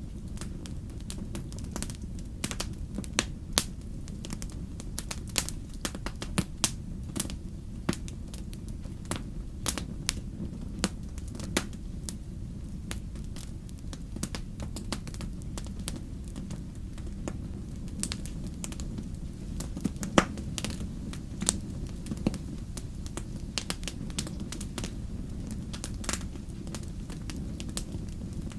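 Wood fire crackling in a fireplace: a steady low rumble of flames with irregular sharp pops and snaps throughout, the loudest pop about two-thirds of the way in.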